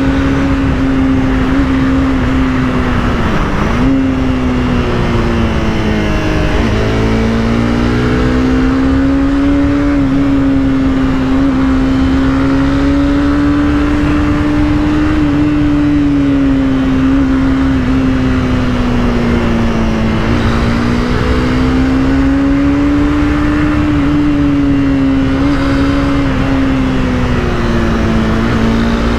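Honda CBR300R's single-cylinder engine running under way, its pitch rising and falling gently as the throttle is worked, with two brief dips in the first seven seconds. Wind noise runs underneath.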